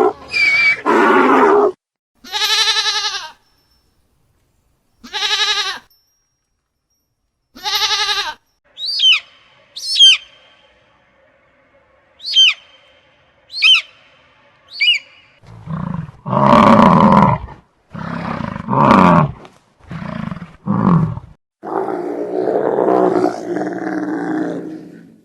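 A string of different animal calls. First three short pitched calls, then a run of sharp falling chirps over a faint steady tone, then several loud low roars or grunts in the last third.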